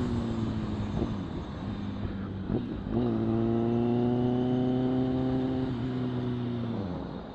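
Motorcycle engine running under way. Its revs drop in the first second, pick up sharply about three seconds in, hold steady, then fall off near the end as the bike slows.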